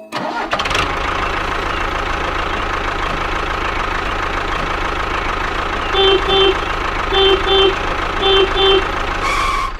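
Diesel tractor engine running steadily with a knocking idle. About six seconds in, a horn gives three double beeps, each pair about a second apart.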